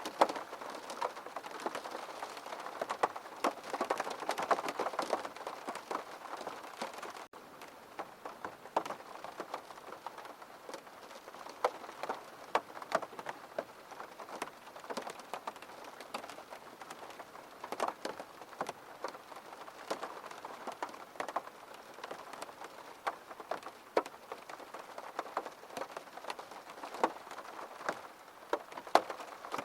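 Steady rain falling on a surface, with individual drops ticking sharply all through.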